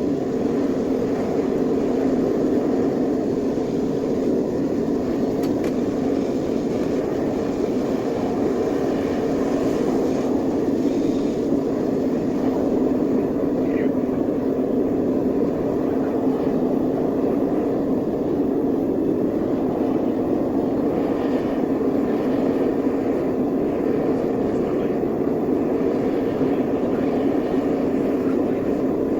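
Gas-fired smelting furnace's burner running steadily, an even unbroken rush of flame noise.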